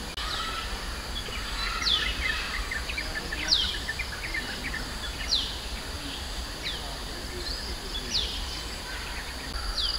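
Forest birds calling: sharp falling whistled notes repeated every second or two, with a short burst of quick chirps about two to three seconds in. Under them run a steady high insect hiss and a low rumble.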